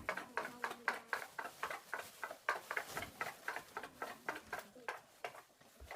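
Rapid, irregular crinkling and rustling of shopping bags being handled and unpacked, several crackles a second.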